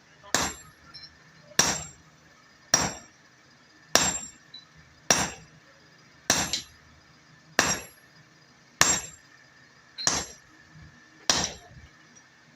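Blacksmith's hammer striking a hot axe head on an anvil in a steady rhythm: ten blows, about one every 1.2 seconds, each ringing briefly, some followed by a light second tap.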